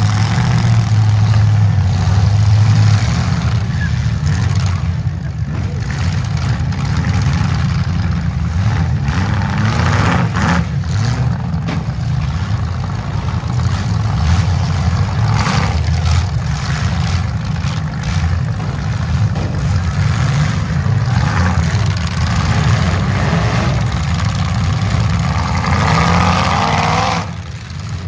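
Several demolition-derby compact cars' engines running and revving hard together, with a few sharp bangs of cars colliding. The engine noise drops off about a second before the end.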